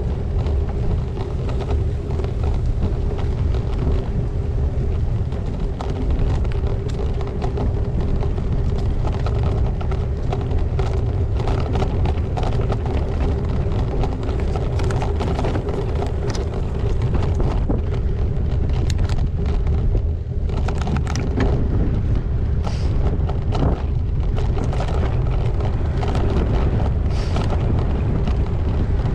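Wind buffeting the GoPro's microphone over the steady rumble of a gravel bike's tyres on a rough track, with scattered clicks and rattles from the bike.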